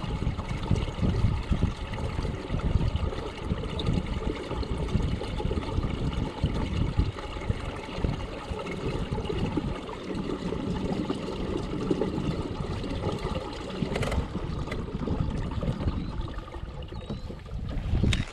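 Water lapping and sloshing against a kayak hull, with one sharp click about fourteen seconds in.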